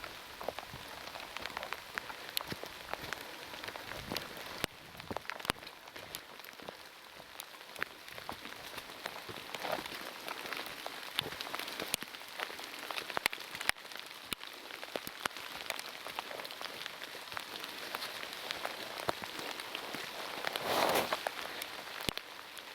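Heavy rain falling, a steady hiss with many sharp drop taps scattered through it. About two seconds before the end there is a brief, louder burst of noise.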